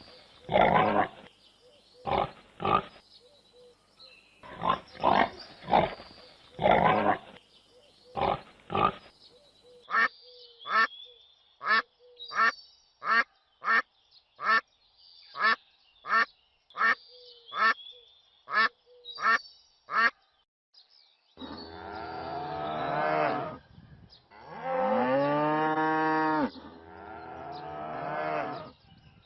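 A series of farm animal calls. It opens with loud, irregular calls, then about ten seconds in comes a run of short duck quacks, roughly one a second. From about 21 seconds there are long, drawn-out calls that bend in pitch.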